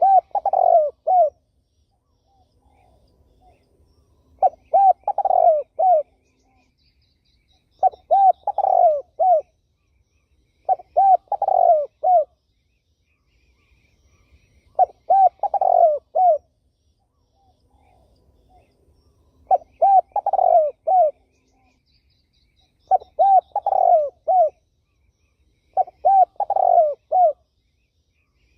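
Spotted dove (terkukur) cooing: short phrases of three or four rounded coos, repeated every three to four seconds. A small bird chirps faintly twice.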